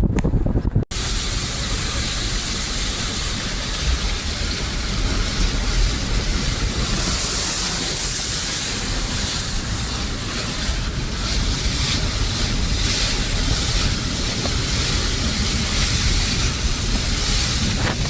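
Steady hiss of heavy rain and wet, flooded road traffic, with low wind rumble on the microphone. A brief dropout from an edit about a second in.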